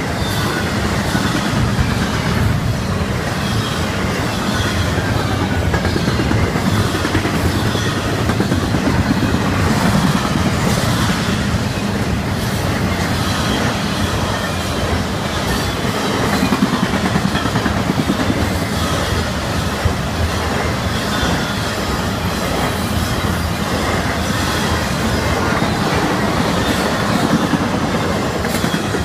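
Intermodal freight train of container well cars and trailer flatcars rolling past: a steady loud rumble of steel wheels on rail, with rapid repeated clicks over the rail joints and faint high wheel squeal now and then.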